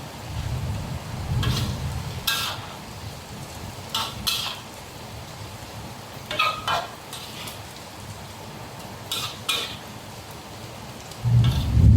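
Dried anchovies frying in oil, stirred with a spatula that scrapes and clinks against the pan in quick pairs every couple of seconds. A low rumble of heavy rain and thunder swells near the end.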